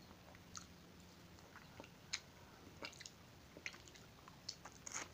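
Close-up mouth sounds of a person eating slices of ripe carabao mango: scattered soft, wet smacks and clicks of biting and chewing at irregular intervals.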